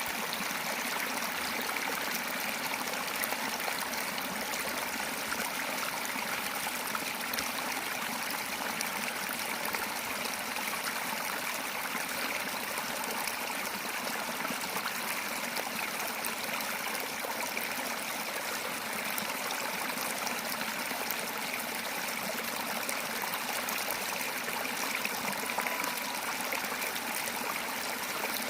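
Water of a stream running steadily, an even rushing with no pauses.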